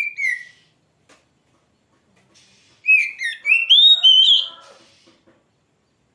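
Oriental magpie-robin (kacer) singing: a short whistled note, then about three seconds in, a longer phrase of clear whistles that glide up and down in pitch.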